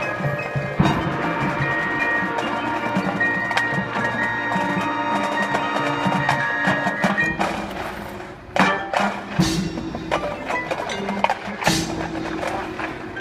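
Marching band playing its field show: sustained chords over mallet percussion and wood-block clicks. The music thins out about eight seconds in, then comes back with sharp percussion hits.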